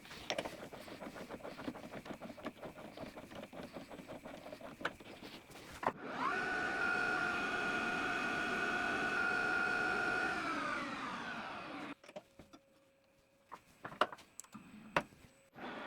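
Crackly scraping and cutting noise, then a machine tool's motor spins up with a steady whine, runs for about four seconds, and winds down with the pitch falling. A few clicks follow near the end.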